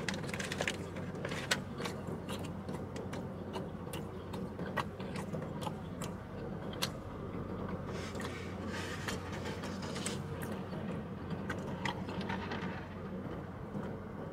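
A person chewing a mouthful of burrito, with scattered small mouth clicks and brief rustles of the paper wrapper, over a steady low hum inside the car.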